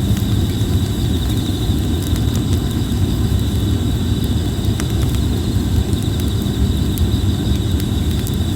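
Red plum (ume) wood campfire burning with a steady low rumble and scattered sharp crackles, over a steady high-pitched insect trill.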